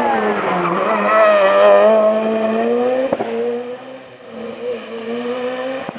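A rally car's engine at high revs. The pitch dips briefly about half a second in, then climbs and holds as the car goes by, and the sound fades after about three seconds. There is a single sharp crack just after three seconds.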